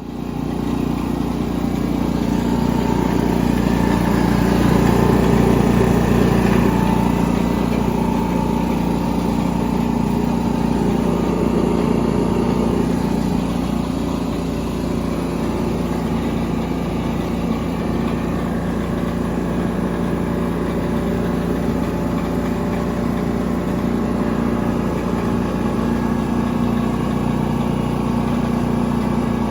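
Denyo GAW180SS engine-driven welder's engine running steadily, a little louder about four to seven seconds in.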